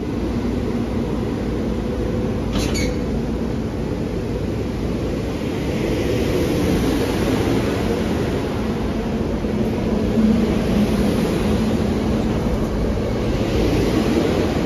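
SEPTA Silverliner IV electric multiple-unit train rolling past along the platform and pulling away: a steady rumble of wheels on rail and running gear, with a brief sharp clack about two and a half seconds in.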